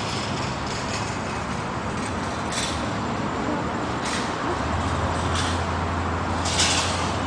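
Road traffic going by: a steady rush of vehicles, with a heavy vehicle's low engine drone setting in about halfway through and several short hisses.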